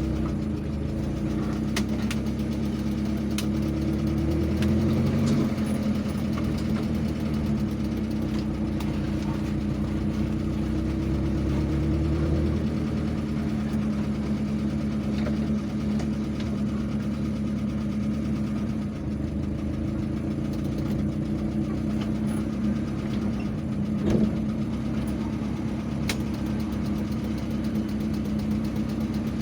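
A vehicle engine running steadily, as heard from the travelling vehicle. Its pitch shifts slightly about five and twelve seconds in. There is a short knock about 24 seconds in.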